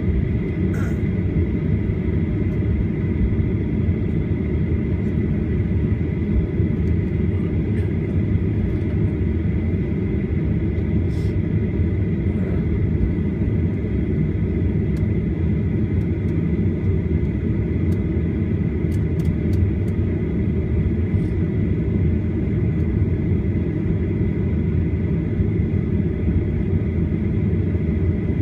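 Boeing 737-800 airliner's CFM56-7B turbofan engines and airflow heard from inside the passenger cabin: a steady, heavy rumble with a thin, steady high whine over it.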